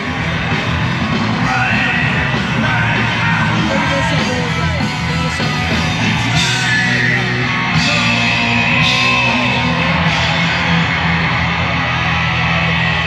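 Rock music with shouted singing, loud and steady, with a heavy bass line.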